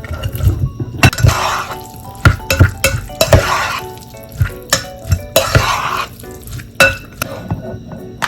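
Kitchen utensils and cookware clinking, knocking and scraping in repeated short strokes, with a few longer scraping swells, over quiet background music.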